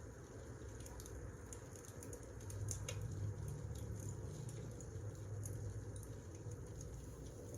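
Wood fire crackling: scattered sharp pops and snaps over a low, steady rumble of burning logs.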